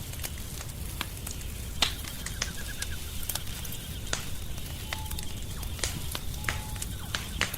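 Wood fire in a fireplace crackling, with irregular sharp pops over a low steady rumble. The loudest pops come a little under two seconds in and near the end.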